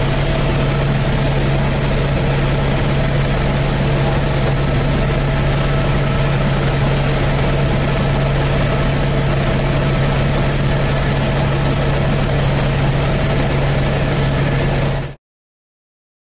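Helicopter cabin noise in flight: the steady drone of the engine and rotors, with a strong low hum. It cuts off suddenly about fifteen seconds in.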